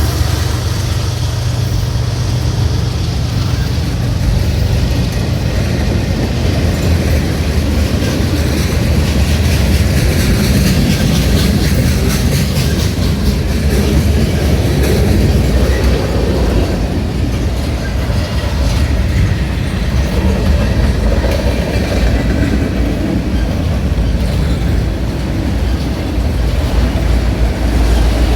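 Norfolk Southern freight train rolling past close by: a steady low rumble of railroad cars with wheels clicking over the rails.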